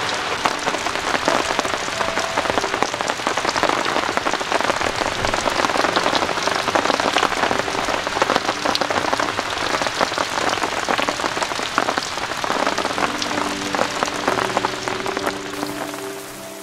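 Steady rain pattering on a camping tarp and the wet ground, a dense hiss full of separate drop impacts. Soft music comes in faintly for the last few seconds as the rain fades down.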